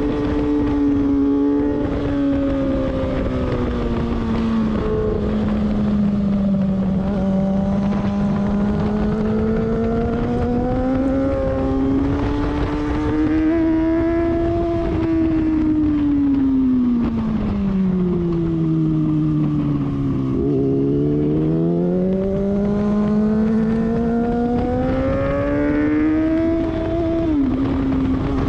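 Sport motorcycle engine at track speed, heard from a tail-mounted onboard camera with wind rumble on the microphone. The revs fall and climb through the corners, dropping deepest about two-thirds of the way through, then climb again and fall sharply near the end as it shifts up while accelerating.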